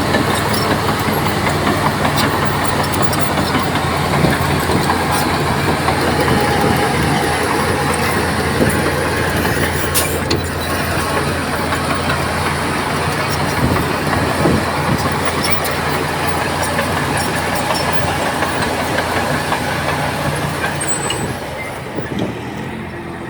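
Crawler bulldozer's diesel engine running steadily under load, with a dense metallic rattle typical of steel tracks clattering. The sound eases slightly near the end.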